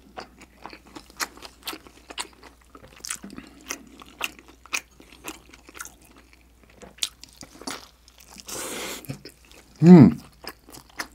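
Close-miked chewing of a dumpling: a steady run of small wet mouth clicks and smacks, with a brief breathy hiss about eight seconds in. A short hummed 'mm' about ten seconds in is the loudest sound.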